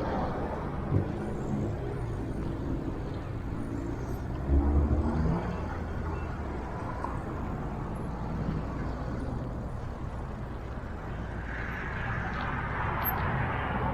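Road traffic passing on a highway: a steady rumble of engines and tyres, with a louder low engine rumble from a passing vehicle about four and a half seconds in and another vehicle's tyre hiss swelling near the end.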